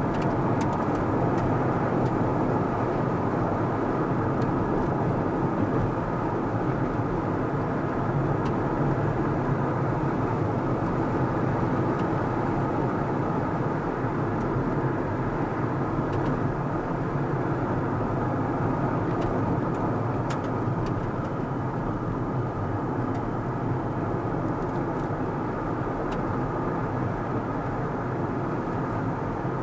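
Car driving at a steady speed: even engine and tyre noise on the road.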